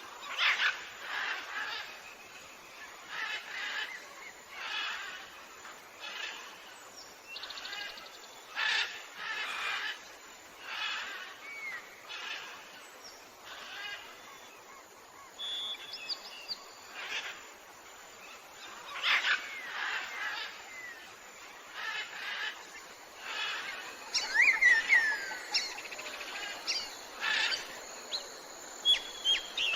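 Tropical jungle birds calling, with repeated short calls every second or two over a steady forest background. Some of the notes are whistles that slide downward, and the calling is busiest and loudest about 24 seconds in.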